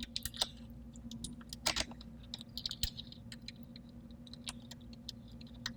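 Faint, scattered small clicks and taps of a solenoid valve and its mounting screws being handled and fitted into place, over a low steady hum.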